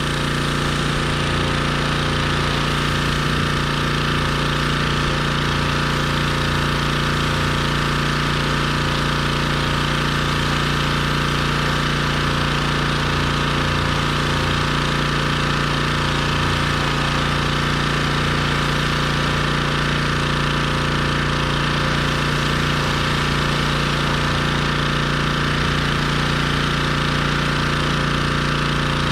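Pressure washer running steadily, its engine putting out a constant hum with an even hiss above it.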